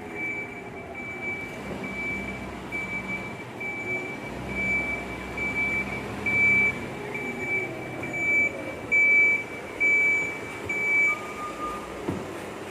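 Volvo FE 300 recycling truck reversing, its back-up alarm beeping about twice a second over the running diesel engine, whose pitch rises and falls. The beeping stops about eleven seconds in.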